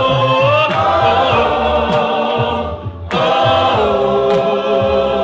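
Worship singers holding long sung "oh" notes of a gospel praise song. There is a short break about three seconds in, and then the held notes resume.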